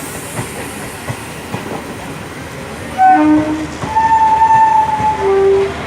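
Passing train rumbling, its wheels clacking over the rail joints in a steady rhythm. About three seconds in a train horn sounds in a series of blasts at changing pitch, the longest held for about a second.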